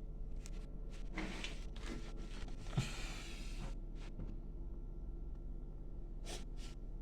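Steady low electrical hum with scattered faint clicks and rustles of handling. About three seconds in there is a short thump followed by a brief breath-like hiss.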